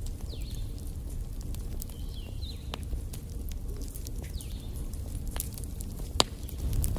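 Wood fire burning in a fireplace: a steady low rumble of flame with scattered sharp crackles and pops, the loudest pop about six seconds in. A few faint, brief high squeaks sound through it.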